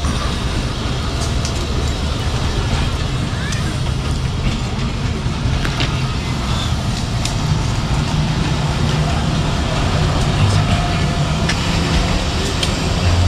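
Pakistan Railways passenger coaches rolling slowly past as the train pulls out. There is a steady low rumble, with scattered clicks and knocks from the wheels and couplings on the rails.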